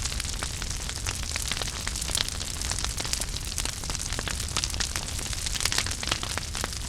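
Fire burning in a fireplace, crackling with many quick, irregular sharp pops over a steady low rumble and hiss.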